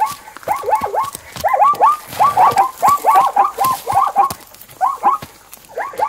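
Zebras calling: a quick series of short yelping, bark-like yips, several a second, coming in runs with short pauses.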